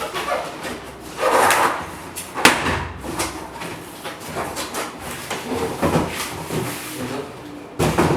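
Unboxing handling noises: a new toaster oven and its packaging being moved about, with a loud scrape about a second in, a sharp knock about two and a half seconds in, then smaller scrapes and knocks.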